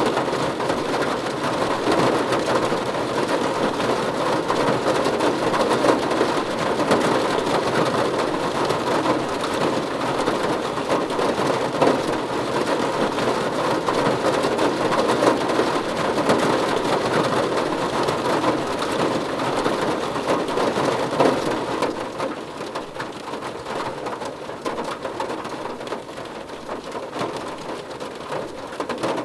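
Heavy rain falling steadily, a dense patter of drops that grows somewhat quieter about three-quarters of the way through.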